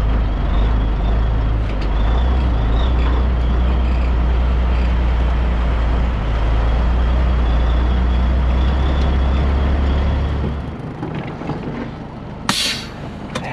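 Cabover Peterbilt 362 diesel truck engine running at a steady idle with a deep drone, which stops about eleven seconds in. About two seconds later comes one short, sharp hiss of air from the air brakes.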